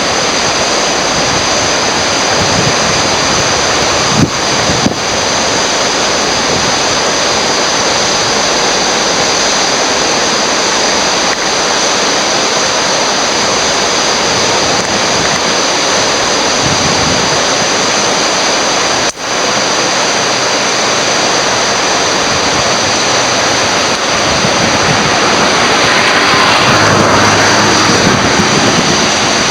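Steady loud rush of water, like a river running through rapids, with some wind on the microphone. A few short clicks, a brief dropout about two-thirds of the way through, and the rush grows a little louder near the end.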